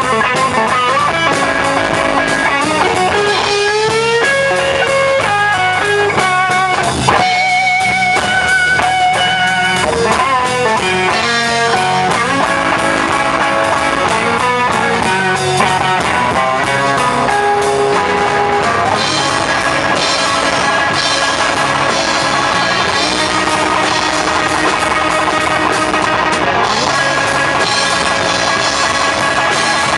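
Blues band playing an instrumental passage: electric guitar lead lines with bent and sliding notes over a drum kit.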